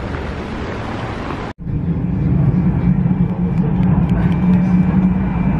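Outdoor noise with wind on the microphone, cut off abruptly about one and a half seconds in. Then the steady low hum and rumble inside a passenger train carriage, with a faint high steady whine joining later.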